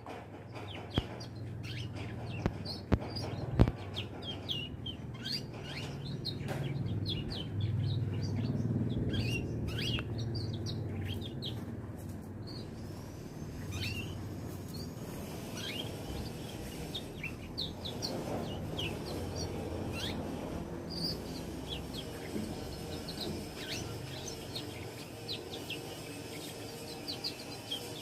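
Young canary twittering: a running series of short, high chirps that goes on throughout, over a low background rumble. A few sharp clicks come in the first few seconds.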